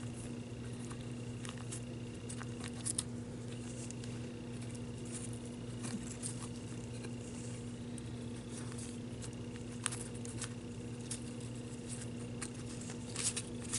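Soft scattered crinkles and small clicks of hands working thin, damp napkin tissue on the ornament, over a steady low electrical hum.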